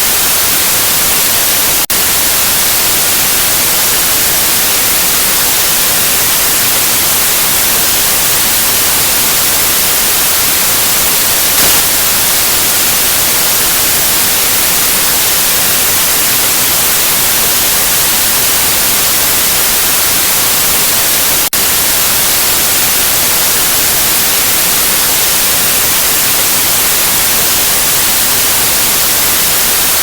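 Steady white noise: an even, loud hiss across the whole range, strongest in the treble, briefly dipping for an instant twice.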